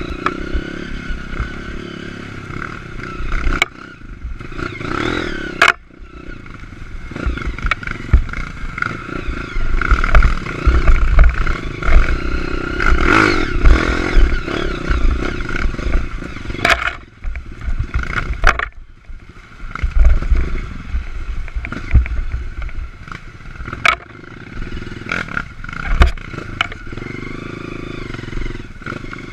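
Honda CRF230 dirt bike's four-stroke single-cylinder engine revving up and down under riding, with repeated clattering knocks as the bike bounces over rough trail. The engine drops back briefly a few times, around a sixth and again about two-thirds of the way through.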